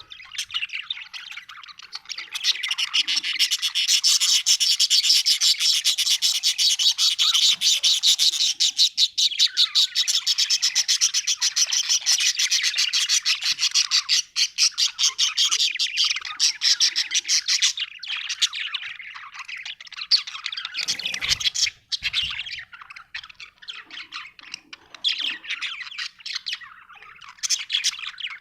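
Budgerigar chirping and warbling in fast, continuous chatter, busiest through the first half and thinning out later. A brief low bump comes about 21 seconds in.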